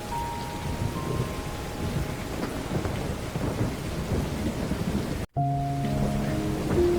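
Heavy rain falling steadily, with a low rumbling of thunder underneath and soft sustained music notes laid over it. About five seconds in, the sound cuts out for a split second, and several held notes come in when it returns.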